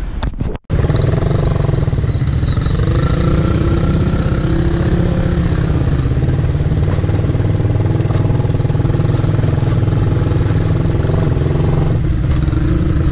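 Suzuki Raider R150 Fi's single-cylinder four-stroke engine running while riding along, its note rising and falling a little, under heavy wind rumble on the helmet-camera microphone. The sound cuts out briefly about half a second in.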